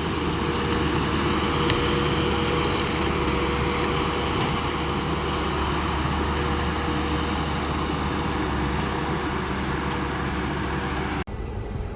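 Diesel engine of heavy logging equipment running steadily, with a low hum and a constant whine. It cuts off abruptly near the end to a quieter background.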